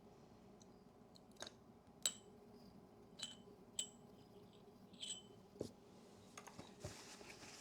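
Small hard objects clicking against each other with a short bright metallic ring, about five irregularly spaced clicks in the first five seconds, then a duller knock, against a quiet background.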